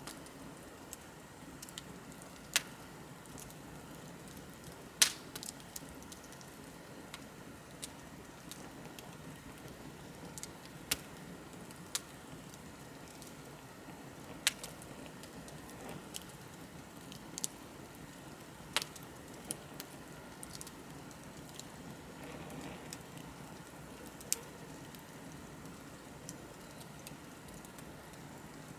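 Wood bonfire burning with a low, steady rush of flame, broken every few seconds by sharp crackles and pops from the burning wood at irregular intervals; the loudest pop comes about five seconds in.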